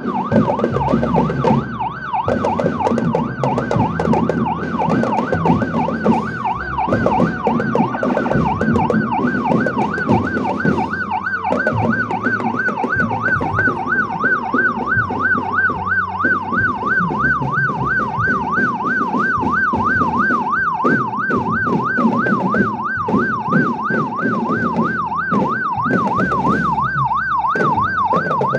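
An electronic siren warbling rapidly up and down, about four sweeps a second and without pause, over the drumming of a marching drum band.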